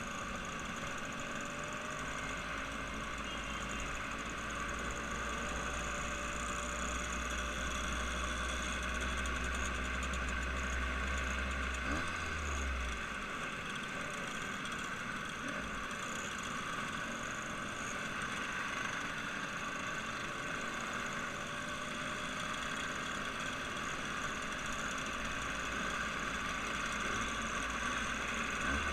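A vehicle engine running steadily, with no sharp changes.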